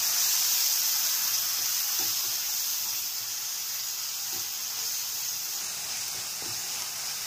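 Onion-tomato masala with freshly added chilli powder and turmeric sizzling in hot oil in a pan while being stirred with a wooden spatula. It is a steady hiss, loudest in the first second and easing a little after.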